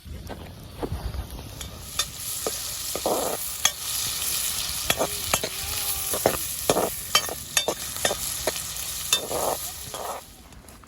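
Chopped onion frying in rendered bacon fat in a camp pot, sizzling steadily while a spoon stirs it, with sharp clicks and scrapes of the spoon against the pot. The sizzle drops away about ten seconds in.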